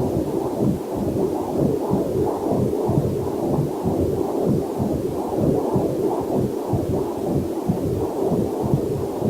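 Fetal heartbeat picked up by a Doppler heart monitor: a rapid, rhythmic whooshing pulse.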